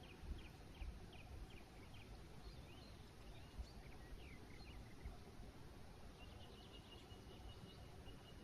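Faint forest birdsong: a bird repeats a row of short falling whistled notes, then gives varied chirps, and a thin steady high note joins near the end. A low rumble with a few soft bumps runs underneath.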